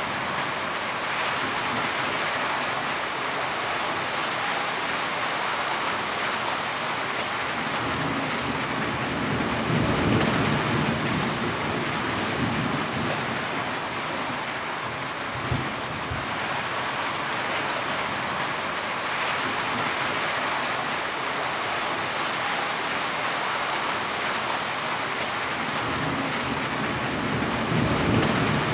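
Heavy rain falling steadily, with low rumbles of thunder swelling about ten seconds in and again near the end, and a single sharp tap about halfway through.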